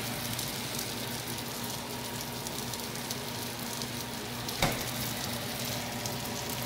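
Blueberry and banana pancake batter sizzling in a frying pan on an electric stovetop: a steady, fine crackling hiss. A single sharp click about two-thirds of the way through.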